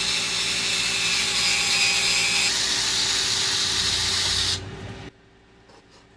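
Handheld power drill running steadily for about four and a half seconds, its tone shifting about halfway through, then stopping.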